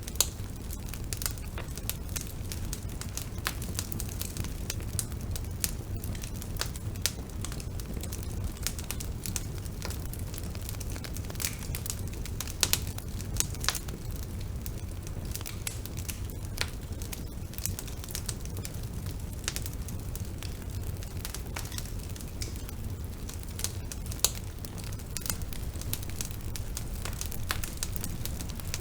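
Wood fire burning: a steady low rumble of flames with frequent crackles and scattered louder pops of burning wood.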